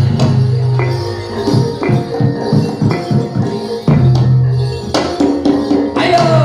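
Live jathilan accompaniment music: rapid drum strokes and jingling, rattling percussion over sustained ringing tones.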